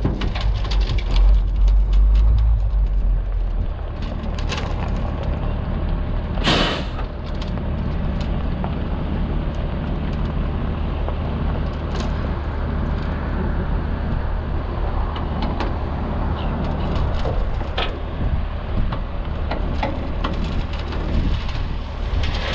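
The DT466 diesel engine of an International S1900 dump truck running steadily on the road, heavier at the start, with scattered rattles. There is one short burst of hiss about six and a half seconds in.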